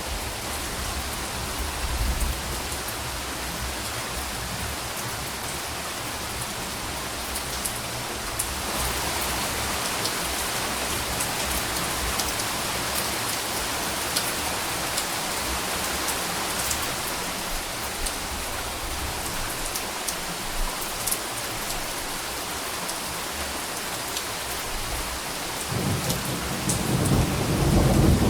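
Steady rain falling with a constant hiss, growing a little heavier about a third of the way in. Near the end a low rumble of thunder builds and gets louder.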